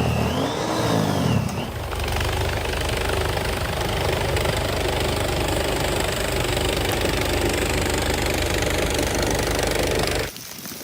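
A motor vehicle's engine revving up and down twice, then running steadily at a low, even pitch. It cuts off suddenly near the end.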